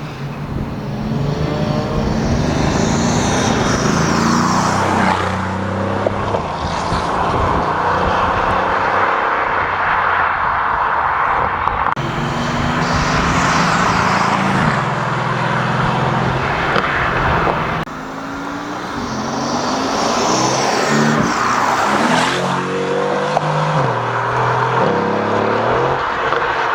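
Mercedes-AMG GT S twin-turbo V8 with an Akrapovic titanium Evolution exhaust, driving and revving through the gears. Its pitch steps up and down with the gear changes over several separate runs.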